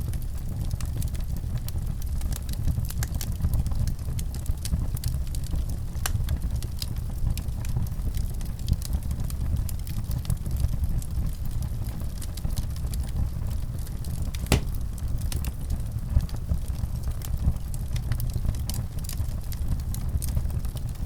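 Wood fire in a fireplace crackling over a steady low rumble, with frequent small snaps and a few louder pops about two thirds of the way through.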